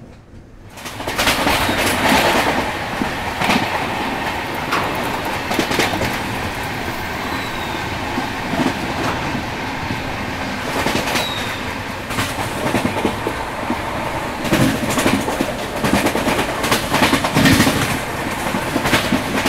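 Double-decker express train running at speed, heard from its open doorway: a loud, steady rolling rumble with repeated clicks of the wheels over the rail joints.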